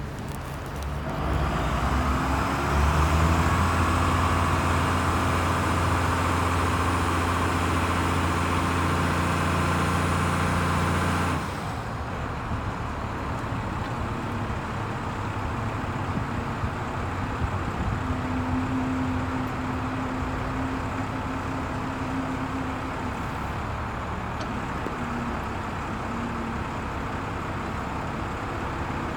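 Ford LN7000 truck crane's engine speeding up about a second in and running at raised revs with a steady high whine. It drops back abruptly to a lower idle about eleven seconds in, with small shifts in pitch afterwards.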